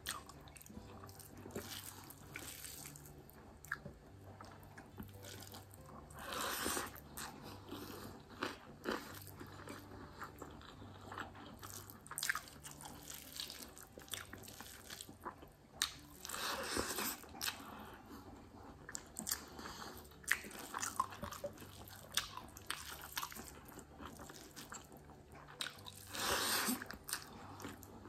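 Close-miked eating: wet chewing with many small clicks and smacks as rice and curry are eaten by hand. Three louder crunchy stretches, each about a second long, come roughly ten seconds apart.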